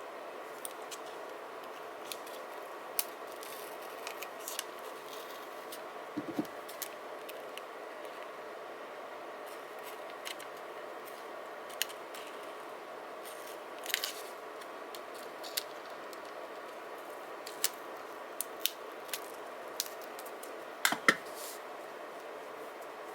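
Scattered light clicks and snips of paper and craft tools handled during sticker journaling, over a steady room hiss; the loudest is a close pair of clicks near the end.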